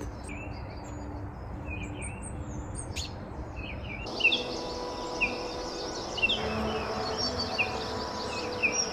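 A small wild songbird calling with short, high chirps repeated over and over, coming faster in the second half; a species new to the garden.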